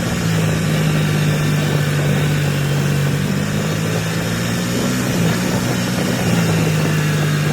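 Coleman 200 mini bike's small single-cylinder four-stroke engine running at a steady speed during break-in riding. Its pitch shifts slightly a couple of times, about two thirds of the way through and again near the end.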